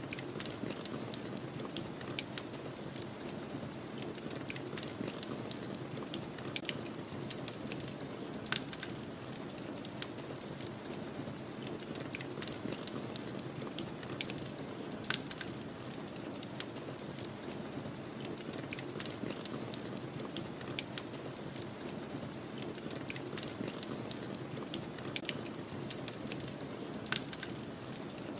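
Wood fire crackling with frequent irregular snaps and pops over a steady low rush, as of snowstorm wind.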